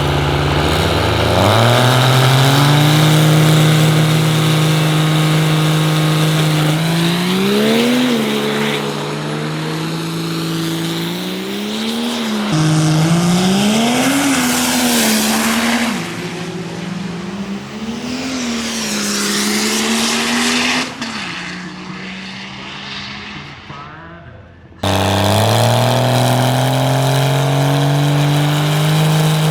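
Diesel race truck engines running hard. The engine note starts suddenly, climbs and holds high, then rises and falls several times through the middle. It fades out and then cuts in abruptly again, climbing to a steady high note.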